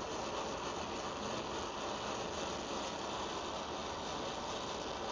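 Steady hiss of a gas torch flame heating a seized rear brake rod.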